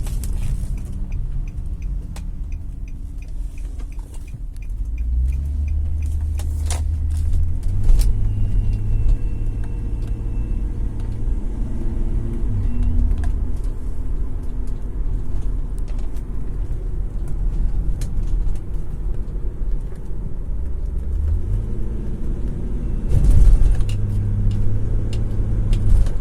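2003 Nissan Murano Z50 driving and accelerating: a steady low rumble that swells twice, with scattered sharp clicks and rattles. About eight seconds in a thin, high, steady whistle sounds for about three seconds: the whistle on acceleration the owner is tracking down.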